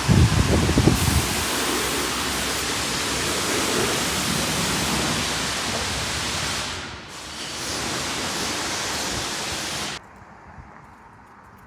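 Loud, steady rushing noise with no clear pitch, with a few low thumps in the first second. It dips briefly about seven seconds in and cuts off sharply near the end.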